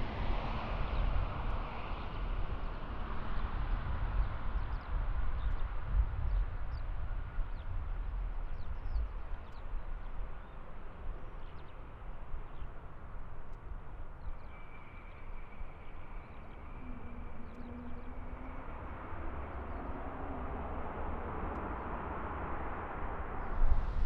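Jet airliner's engine noise fading away after it passes, leaving a steady low rumble with a few faint bird chirps.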